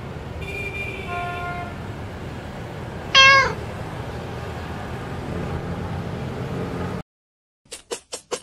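A single loud cat meow about three seconds in, dropping in pitch as it ends, over a steady low background. Before it, a snake charmer's pungi plays held reedy notes. Near the end the sound cuts out briefly, then a few short sharp pulses start.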